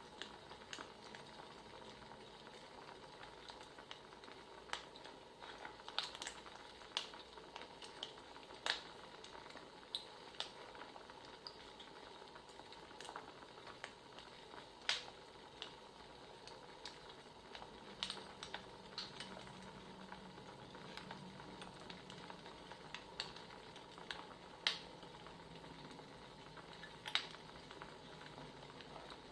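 Crackling wood fire, faint: a steady low hiss broken by irregular sharp pops and snaps of burning firewood.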